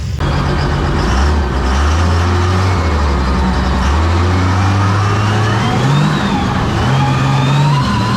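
Monster truck engine running loud and revving, its low drone shifting in pitch, with a higher whine gliding up and down over it.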